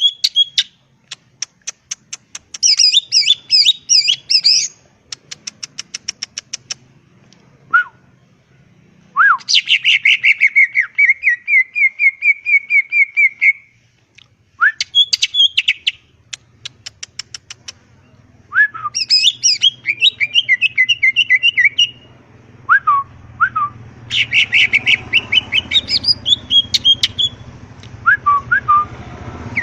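Green leafbird (cucak ijo) in full song: bursts of varied phrases with rapid chattering trills and clear whistled notes, broken by short pauses.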